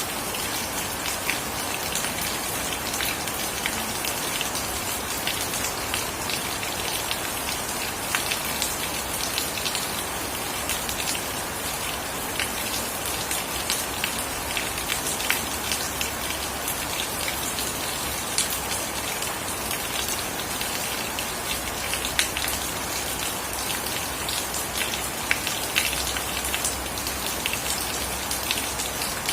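Steady heavy rain falling, an even hiss dotted with many sharp ticks of drops striking close by.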